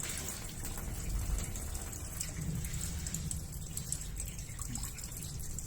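Hot water running steadily from the outlet of an instant electric water heater during a flow test.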